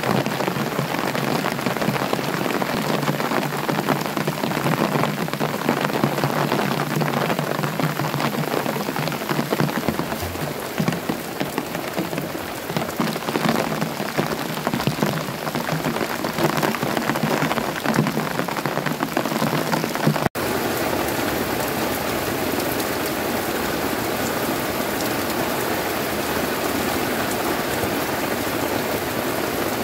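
Heavy rain falling, with many close drop impacts pattering over the steady rush. About twenty seconds in it cuts off abruptly and resumes as a smoother, even downpour.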